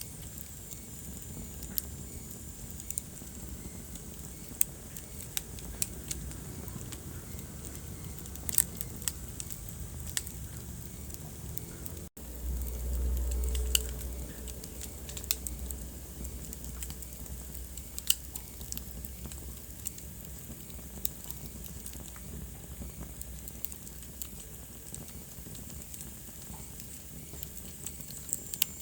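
Wood fire crackling in a fireplace: a steady low hiss with scattered sharp pops and snaps. About twelve seconds in the sound cuts out for an instant, then a low rumble rises for a second or two.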